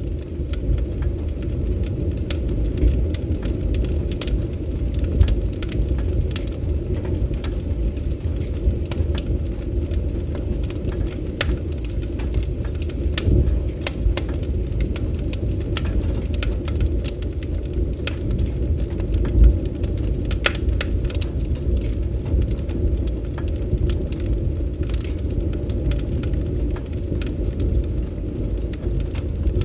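Fireplace fire crackling: a steady low rumble of flames with frequent sharp pops and snaps, one louder pop about two-thirds of the way through.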